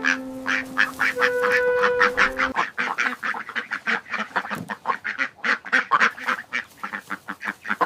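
A flock of ducks quacking, many rapid calls overlapping. Held background-music notes sound under them for the first two and a half seconds.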